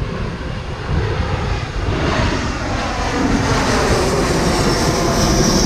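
Strong wind buffeting the microphone: a loud, steady rumble with hiss.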